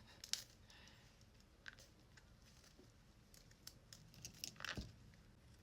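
Near silence: room tone with faint scattered clicks and crinkles, and a short cluster of them about four and a half seconds in.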